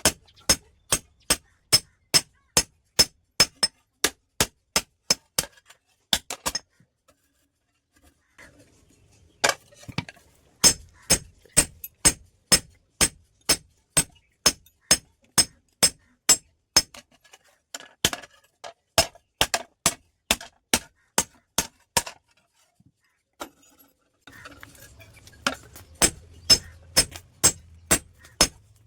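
Steady hand-hammer blows on steel over an anvil, about two a second, each with a bright metallic ring, forging a hoe blade from a steel plate. The hammering pauses twice for a few seconds.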